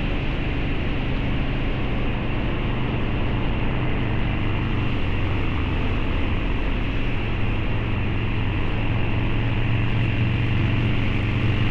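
Harley-Davidson Low Rider's 129 ci V-twin running steadily through a Two Brothers Racing exhaust while riding, with a deep, even exhaust note and road rush.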